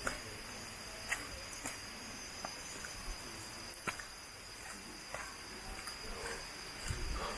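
Insects chirring in a steady high drone, with scattered short clicks and knocks.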